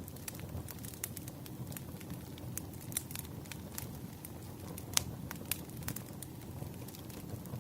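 Bonfire burning: a steady low rumble of flames with irregular sharp crackles and pops of burning wood, one louder pop about five seconds in.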